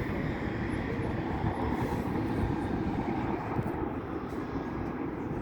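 Jet engines of a departing airliner heard at a distance: a steady low rumble.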